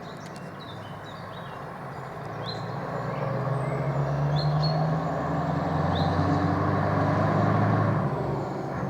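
Scania 143H 420 Streamline truck's V8 diesel engine running, growing steadily louder over several seconds, then easing off a little near the end.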